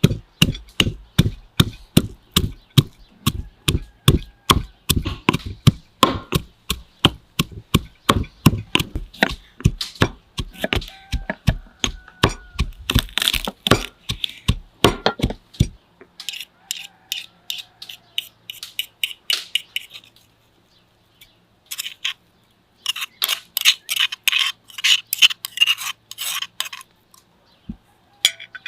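Rapid chopping on a wooden board, about three to four strokes a second. The strokes are heavy for the first half, then after a short pause come two runs of lighter, sharper strokes.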